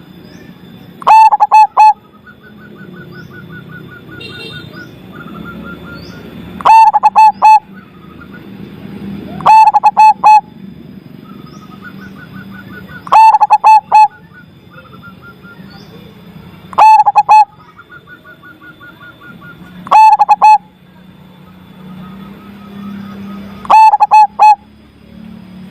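Zebra dove (perkutut) cooing its loud multi-note song phrase, repeated seven times about every three and a half seconds and loud enough to clip. Between phrases there is faint rapid chirping from another small bird.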